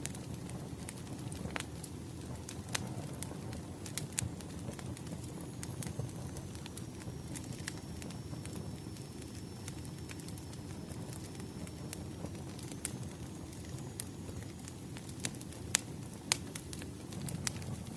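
Wood fire burning: a steady low rush with scattered sharp crackles and pops, and a faint high whistle through the middle.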